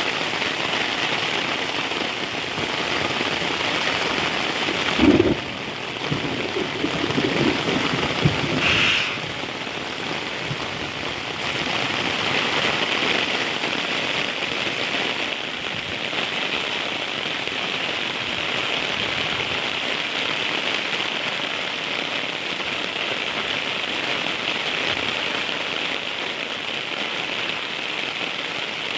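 Heavy rain falling steadily. About five seconds in there is a sudden loud knock, followed by roughly three seconds of louder, lower-pitched sound, before the even rain noise carries on.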